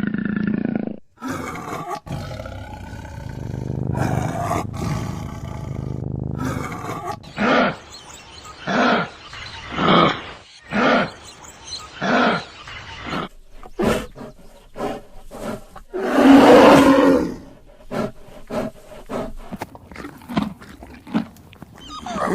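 An animal calling: low rumbling at first, then a series of short calls about one a second, and one longer, louder call past the middle.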